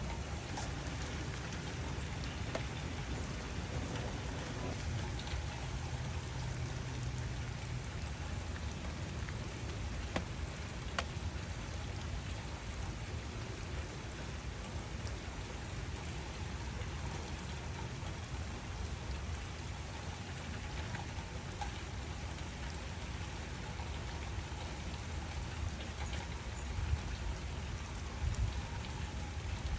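Steady rain falling, with scattered single drops ticking over the hiss and a low rumble underneath that swells near the end.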